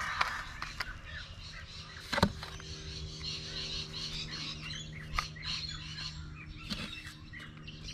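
Birds chirping and calling, with a sharp knock about two seconds in and a faint steady low hum underneath.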